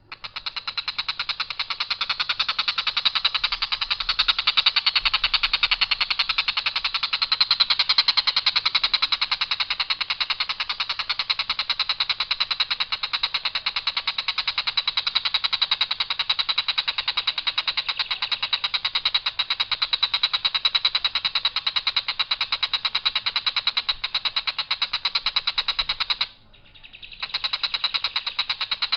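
Tengkek buto, a kingfisher, giving a long, harsh, very fast rattling trill on one even pitch, held for many seconds at a stretch, breaking off briefly near the end and then starting again.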